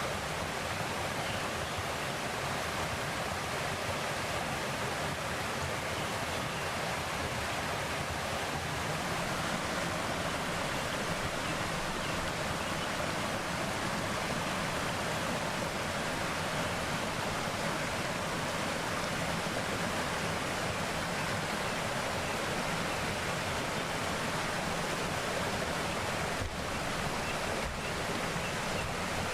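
Mountain valley stream flowing in a steady, unbroken rush of running water.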